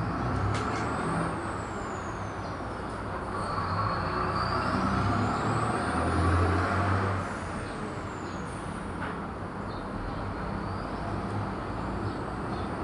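Steady background rumble and hiss, with a thin high whine that slowly rises and falls, and a few faint clicks.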